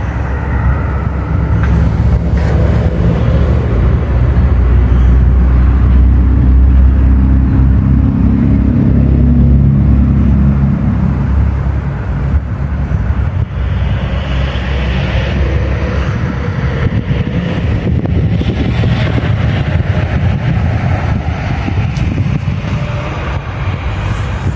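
A railway train running past, its engine giving a steady low rumble that is loudest about six to ten seconds in, then easing off.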